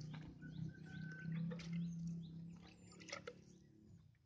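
Faint bird chirps, short calls that glide in pitch, over a low steady hum that fades out about three seconds in. There are a couple of sharp clicks shortly after.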